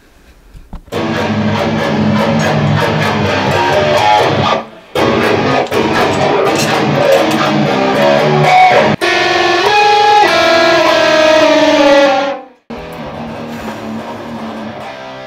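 A rock band playing loud electric guitar and bass riffs, cut abruptly three times; after the last cut, quieter, held guitar notes.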